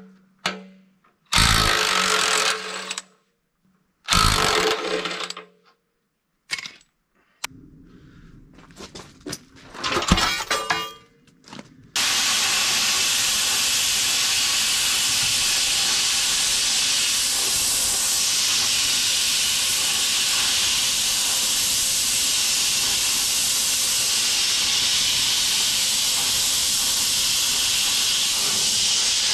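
Titanium 65 plasma cutter on 3/4-inch steel plate: several short bursts of hiss as the arc is started and stopped, then a steady, loud hiss of continuous cutting from about twelve seconds in.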